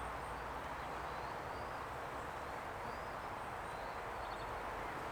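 Steady buzzing of a honey bee colony around an opened hive as its frames are handled, with a few faint bird chirps.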